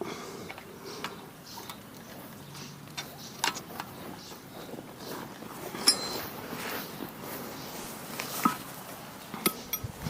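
Scattered metallic clinks and taps of tools and steel mower parts being handled while the rotary mower's blades are refitted. A few strikes ring briefly, the loudest about six seconds in and near the end.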